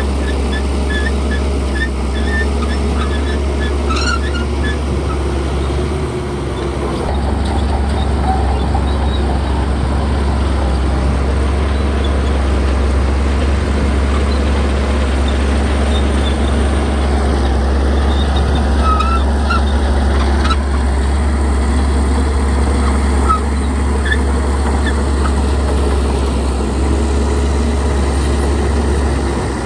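Bulldozer's diesel engine running steadily with a deep, constant drone, along with the clatter of the machine working, with a few short high squeaks early on and scattered through.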